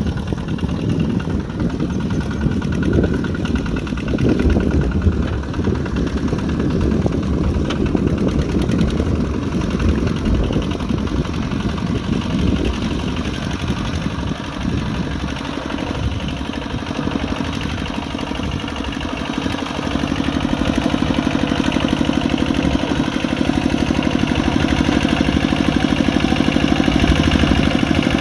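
A Kubota RT140 Plus single-cylinder diesel engine running on a tractor plowing mud. About 20 seconds in, its note turns steadier and a little louder.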